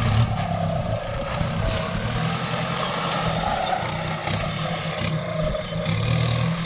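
Kubota farm tractor's diesel engine running steadily while plowing rice stubble under.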